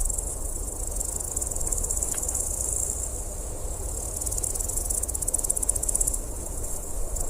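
A steady, high-pitched chorus of insects trilling, with a low rumble underneath and a couple of faint brief chirps about two seconds in.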